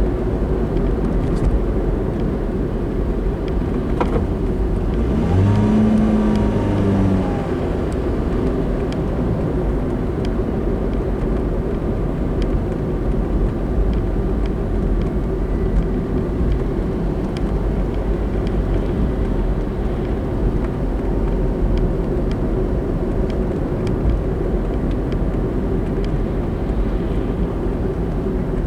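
Steady road and engine noise of a car driving. About five seconds in, a brief tone rises and falls in pitch for a couple of seconds, and a single click sounds just before it.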